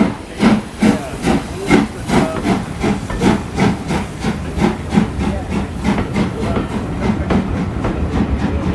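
Steam locomotive exhaust chuffing as it pulls away: sharp regular beats that quicken from about two to three a second and blur together near the end as the train gathers speed.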